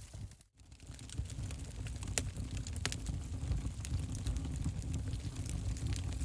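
Wood fire burning in a fireplace: a low steady rumble with a few sharp crackles and pops. The sound drops out briefly about half a second in.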